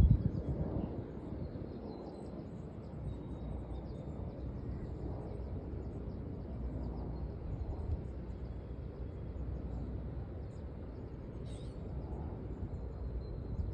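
Outdoor ambience: a steady low rumble of noise, with faint high bird chirps here and there and a single thump at the very start.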